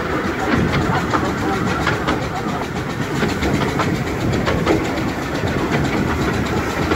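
Bure Valley Railway 15-inch gauge train running along the line: a steady rumble with irregular clicks and clatter of wheels over the rails.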